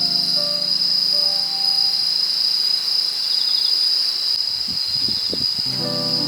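Night insects chirring in a steady, high-pitched, unbroken chorus. Soft background music notes sound in the first couple of seconds and return near the end.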